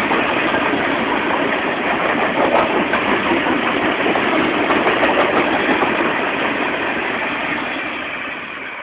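Freight train rolling past, a steady rumbling noise of wheels on rail that fades away over the last couple of seconds.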